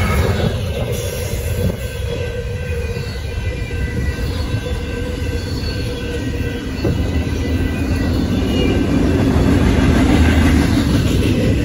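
Double-stack intermodal well cars of a freight train rolling past at a grade crossing: a steady rumble of steel wheels on rail, with thin high tones over it. It grows louder about two-thirds of the way through.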